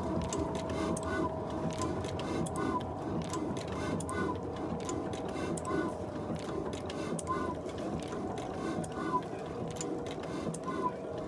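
Old diesel engine driving an atta flour mill, running steadily with a rapid, even clatter. A short chirp comes about once a second.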